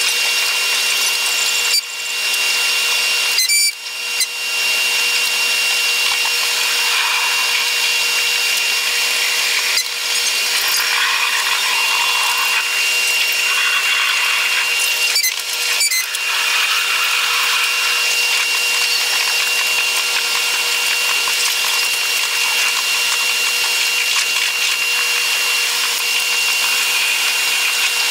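Running noise of a Taiwan Railway EMU100 electric train, sped up eightfold: a steady, high-pitched whirring hiss with a few fixed whine tones, broken by several brief dips.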